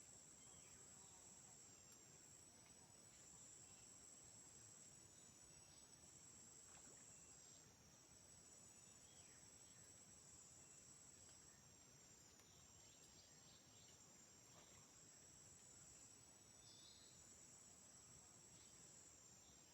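Faint, steady, high-pitched chorus of rainforest insects, with a few short faint calls over it.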